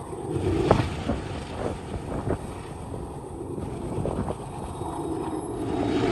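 Diesel locomotives working hard under load, a steady low rumble from rear DPU units pushing a freight train up a steep grade, with wind buffeting the microphone.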